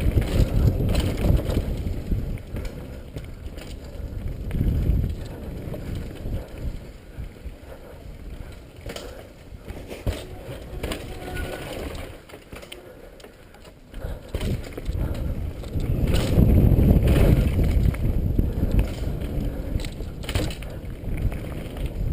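Mountain bike descending a dirt trail: tyres rumbling over rough ground with the chain and frame rattling and clicking. It quietens for a couple of seconds past the middle, then gets louder again.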